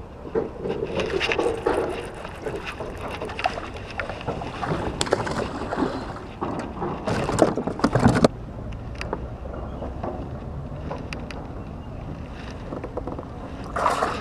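Water sloshing and splashing around a kayak, with irregular knocks and clicks, the loudest cluster about seven to eight seconds in, and wind on the microphone.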